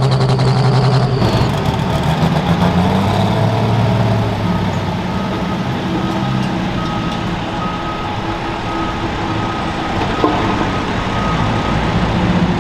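Large diesel engine running steadily, with a high whine that cuts off about a second in. A reversing alarm beeps repeatedly from about four seconds in until near the end.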